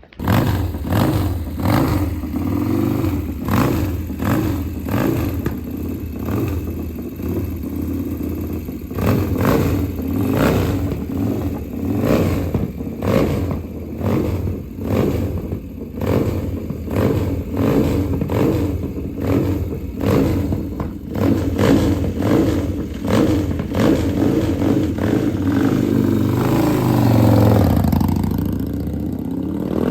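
Harley-Davidson V-twin motorcycle engine running under way, its note rising and falling with the throttle, with a larger swing in pitch near the end.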